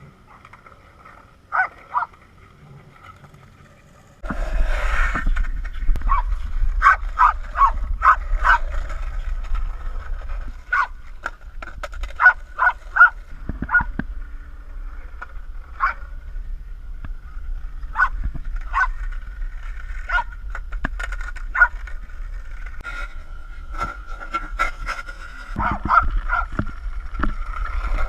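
Dog barking and yipping in short, repeated calls. A steady low rumble starts suddenly about four seconds in and continues under the barks.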